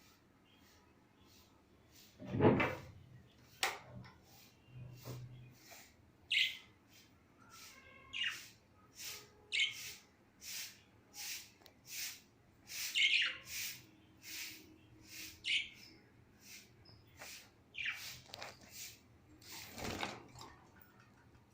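Lovebirds chirping: short, sharp, high chirps repeated every second or so, with a much louder sound about two seconds in.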